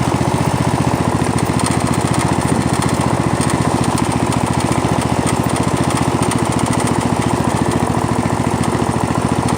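Poulan lawn tractor's small gasoline engine running steadily with an even, rapid throb, still warming up after its first start of the season. It fires evenly with no misfires.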